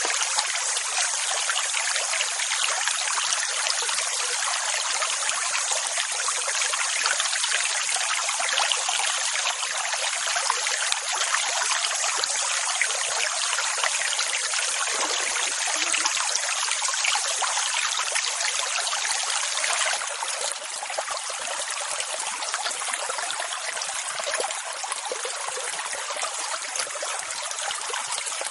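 Steady rushing, splashing water with no deep rumble and no clear surge and retreat; about twenty seconds in it drops a little quieter and stays so.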